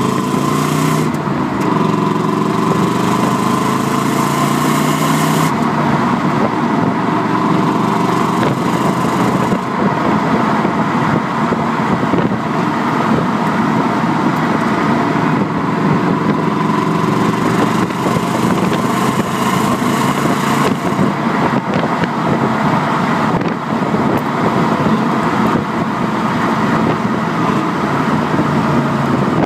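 Subaru Legacy GT-B's twin-turbo flat-four engine heard through its stock exhaust from the back of the car while driving. The engine note climbs in pitch under acceleration and drops back several times, over steady road and wind noise.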